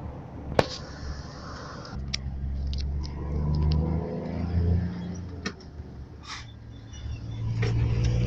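Scania 124 bus engine running, with a deep low note that swells and climbs as it is revved about two seconds in, eases off around the middle, and rises again near the end. A few sharp clicks sound over it.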